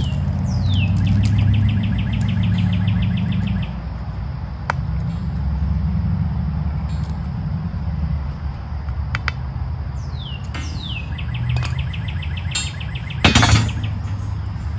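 A songbird singing twice: each phrase is a quick downslurred whistle followed by a rapid, even trill lasting a couple of seconds. Under it runs a steady low rumble, and a few small clicks and one brief loud clatter come near the end.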